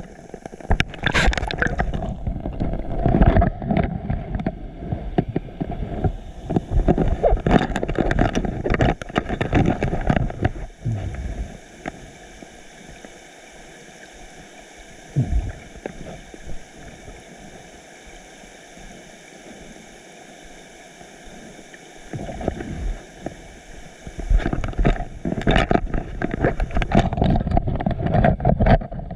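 Seawater splashing and sloshing around a swimmer in choppy open ocean, with wind buffeting the microphone. In the middle it drops for several seconds to a quieter, duller rush of water, then the loud splashing returns.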